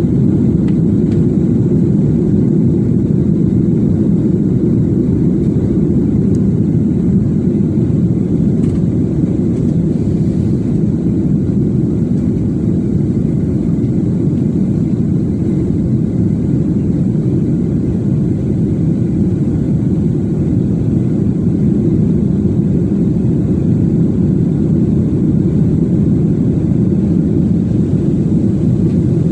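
Jet airliner running steadily through its takeoff: a loud, even, low-pitched noise that holds level throughout.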